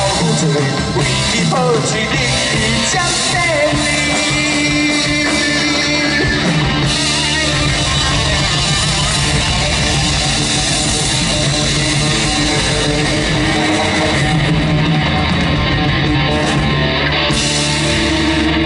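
Live rock band playing the instrumental ending of a Taiwanese Hokkien song, with guitar to the fore.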